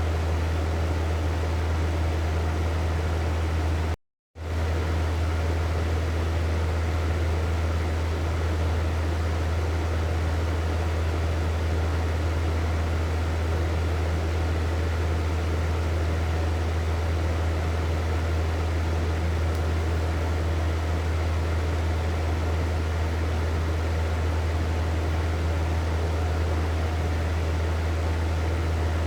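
Hair dryer running steadily: a constant airy rush over a low motor hum. It cuts to silence for a fraction of a second about four seconds in, then carries on unchanged.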